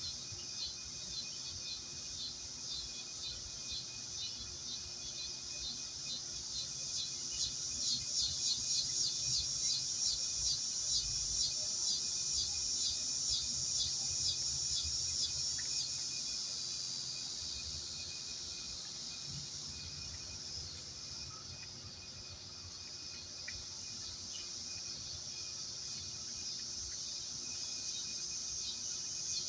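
Insects chirring in a steady high buzz that swells in the middle into a pulsing rhythm of about three to four pulses a second, then fades back.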